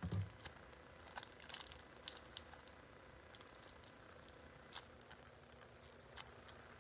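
Pokémon booster pack and cards being handled: faint crinkling of the foil wrapper with a scatter of small crackles and clicks.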